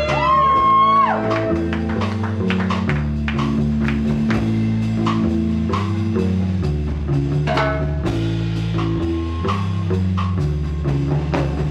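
Live rock band playing an instrumental passage: drum kit keeping a steady beat under sustained guitar and bass notes that move in steps.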